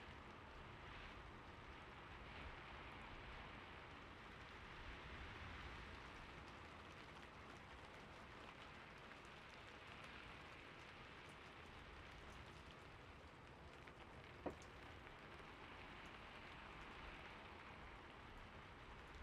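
Faint, steady gentle rain, a soft even patter, with a single short click about three-quarters of the way through.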